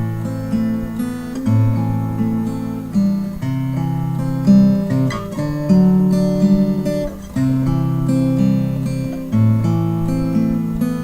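Acoustic guitar music: plucked and strummed chords, the chord changing every second or two.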